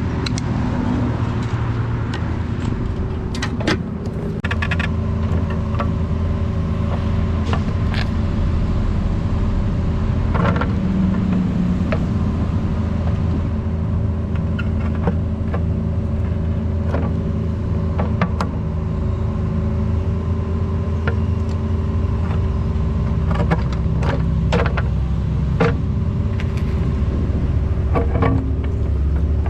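Mini excavator engine running steadily while digging, with scattered knocks and scrapes of the bucket and machine working throughout.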